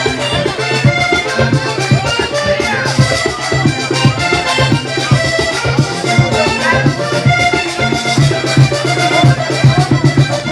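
Vallenato trio playing an instrumental passage with no singing: a button accordion plays the melody in held and running notes over quick, steady strokes of the caja vallenata hand drum and the scraping of the guacharaca.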